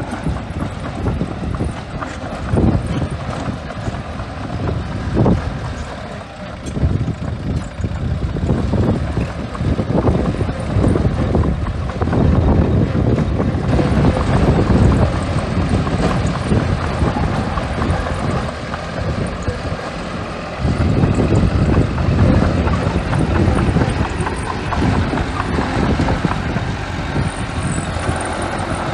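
A small bulldozer's diesel engine running under load as it pushes and spreads sand. The sound gets louder from about halfway through and rises sharply again later.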